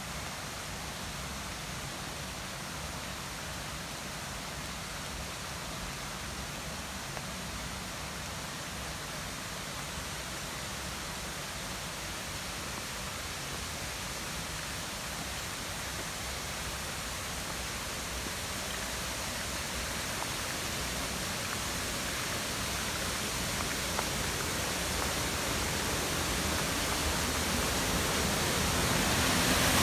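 Steady rain falling, an even hiss that grows louder over the last ten seconds or so.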